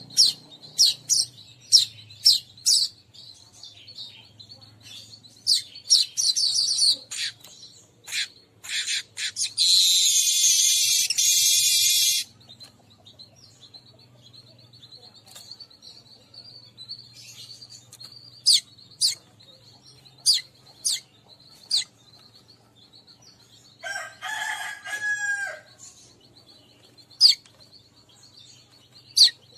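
Weaverbird calls from a lure recording: many short, sharp, high chirps, with a dense harsh buzzy trill lasting about two and a half seconds a third of the way in. Near the end comes a lower, drawn-out call of about two seconds.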